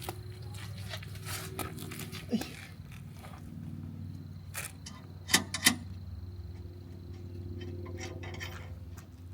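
Scattered metallic clicks and knocks from hand tools working on a car's adjustable rear suspension, with a pair of sharper knocks about five and a half seconds in, over a steady low hum.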